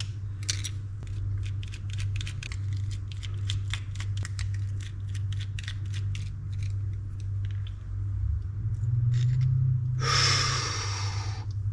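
Small metal parts of a Daiwa Catalina 6500H spinning reel clicking as it is being taken apart, a run of light clicks, several a second. A short hiss of under two seconds comes near the end.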